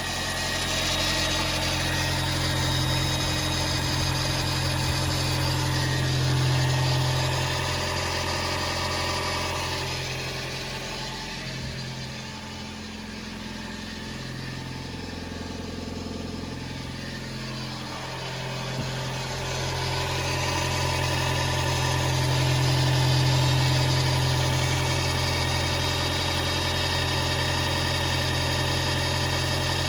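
Toyota Aqua hybrid's 1.5-litre four-cylinder petrol engine running steadily at idle, a little quieter for several seconds in the middle before coming back up.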